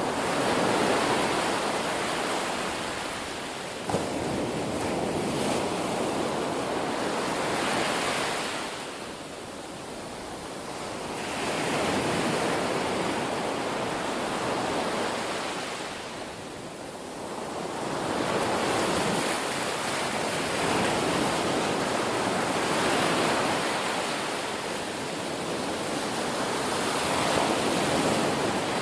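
Ocean surf: waves breaking and washing up the shore in a continuous rush that swells and ebbs, easing off twice in the middle. A single brief click sounds about four seconds in.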